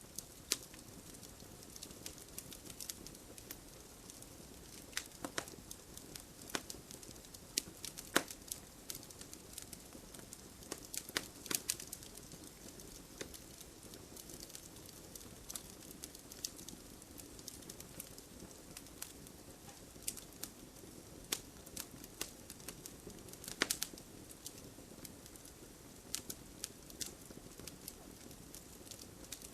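Wood fire burning in a fireplace: a steady soft hiss with frequent irregular crackles and pops, a few of them sharper snaps.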